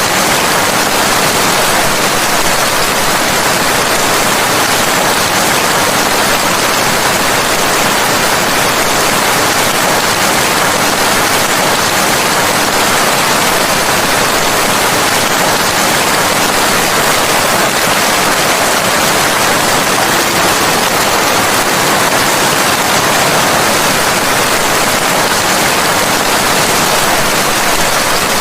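Steady, heavy rain, a dense even hiss without thunder or separate drops standing out.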